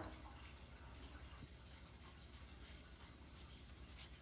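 Near silence: room tone with faint light scratching and a single small click near the end.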